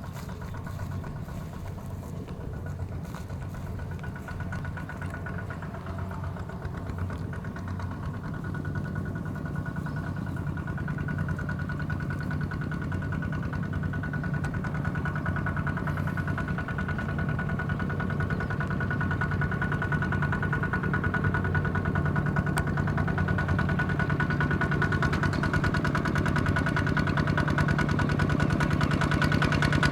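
Single-cylinder diesel engine of a small Kubota ZT155 tractor running steadily with an even putter, gradually growing louder.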